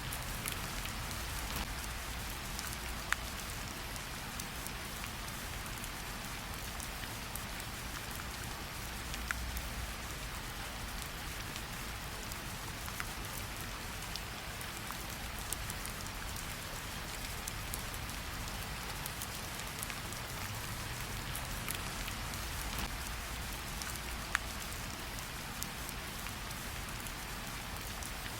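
Gentle rain falling on tree leaves: a steady soft patter of many small drops, with a few louder single drips standing out now and then.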